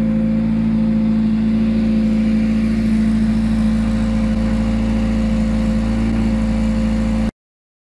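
Renault 21 engine running steadily at idle a couple of minutes after a cold start at -10°C. The sound cuts off suddenly near the end.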